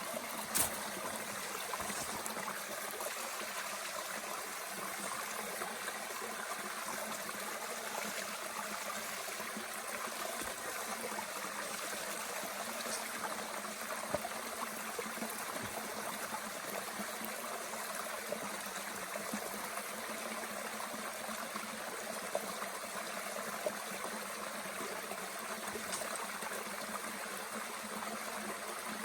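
Mountain stream running steadily, with a few sharp pops and crackles from a small wood fire burning in a Bush Box stove.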